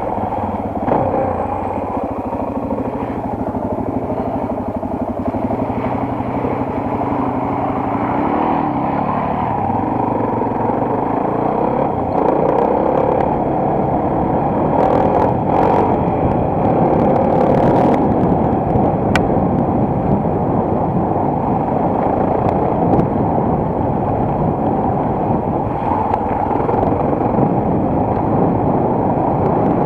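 Single-cylinder four-stroke enduro motorcycle engine running under way, its pitch rising and falling with the throttle, heard close up from a camera on the bike. A few brief knocks come about halfway through.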